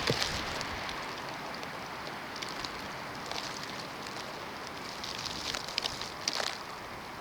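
Snowstorm ambience: a steady hiss of wind and blowing snow, with scattered faint ticks and a few sharper ones about six seconds in.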